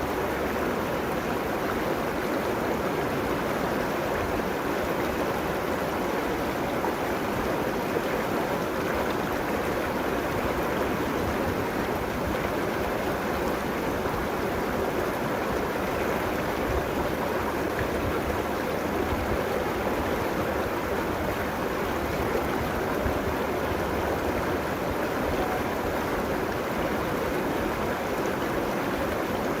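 River water flowing and rushing steadily over its bed along the bank, a continuous even rush with no breaks.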